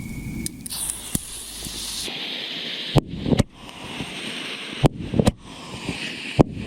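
Firework cake firing: about five sharp bangs of shots going off, most in close pairs, over a steady hiss.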